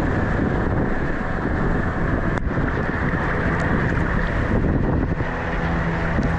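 Wind buffeting the microphone over surf on a rocky beach. A steady low motor hum comes in near the end.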